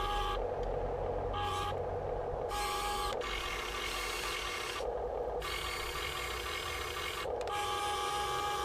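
Electric motors and metal gear drives of a Huina 1580 RC excavator whining, the pitch and texture changing every second or so as different motors start and stop.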